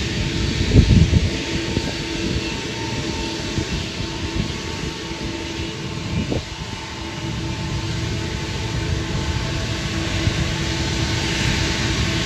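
Jet airliner engine noise, a steady rumble with a held whine, mixed with rain hiss and wind buffeting the microphone, strongest about a second in.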